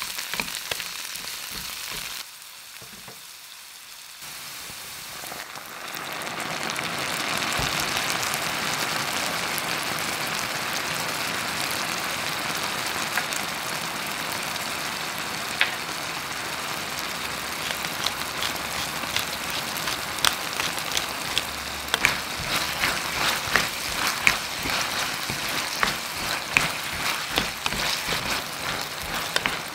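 Diced vegetables and Chinese sausage sizzling in oil in a frying pan while being stirred with a wooden spatula. The sizzle drops briefly about two seconds in, then builds back to a steady sizzle, and in the second half many sharp clicks and scrapes of the spatula against the pan come through it.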